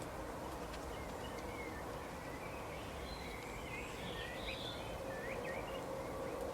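Small birds chirping in short, quick notes, busiest in the middle stretch, over a steady low rumble with a faint hum.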